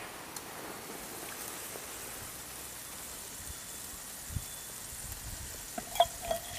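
Charcoal burning in a small mini fire stand: a steady hiss with a few faint crackles. About six seconds in there is a sharp metallic clink, the loudest sound, then a couple of lighter clicks.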